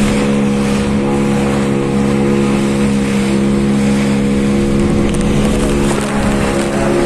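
Engine running steadily at a constant speed, with a broad rushing noise over it.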